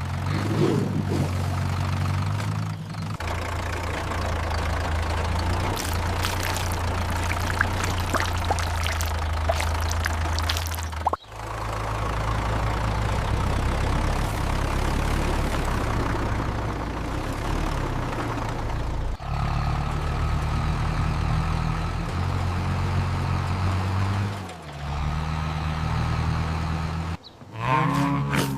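Vehicle engine running steadily at a low pitch, broken by short sudden dropouts about 11 and 19 seconds in.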